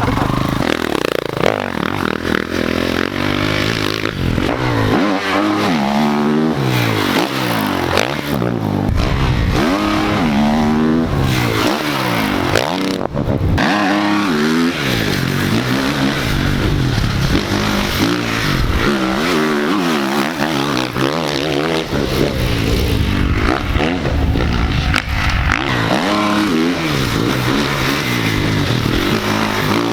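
Pit bike engine revving up and falling back again and again as the bike is ridden around a dirt track, the pitch climbing and dropping every few seconds through the straights and corners.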